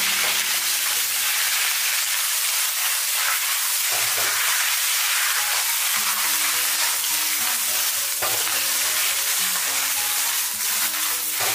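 Shanghai bok choy sizzling steadily in a wok of oil heated until just smoking, as it is stir-fried, with a few strokes of a metal spatula.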